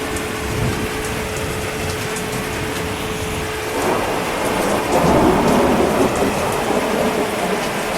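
Steady heavy rain with a roll of thunder that builds about four seconds in, is loudest around five to six seconds, then eases back into the rain.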